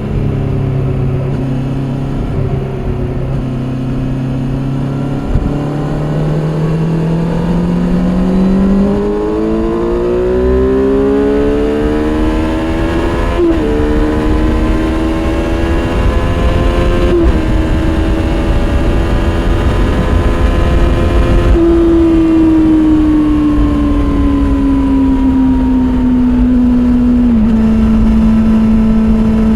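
Kawasaki Z800's inline-four through its stock exhaust: the engine pulls steadily up through the revs with two quick upshifts, holds, then winds down as the bike slows, with a sudden drop in pitch near the end.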